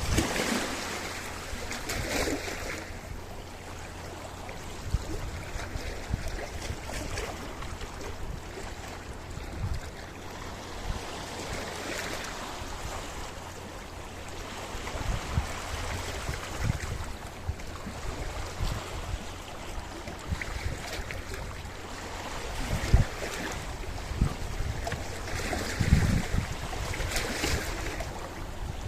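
Sea waves washing in and out over a rocky shore, swelling in several surges, with low wind rumble on the microphone.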